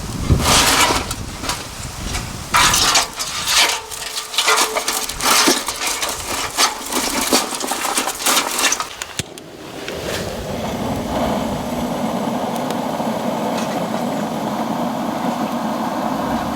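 Dry bamboo cracking and snapping: a run of sharp, irregular cracks for about nine seconds. About ten seconds in, a steady, even rushing noise takes over.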